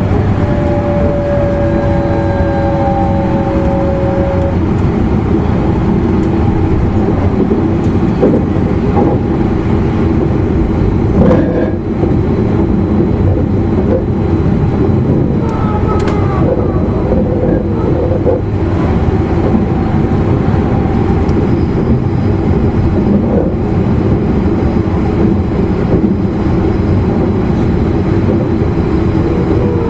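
Running noise inside the motor car of a JR East E259 series Narita Express train under way: a steady, loud rumble of wheels on rail with traction motor hum, with a brief knock about eleven seconds in.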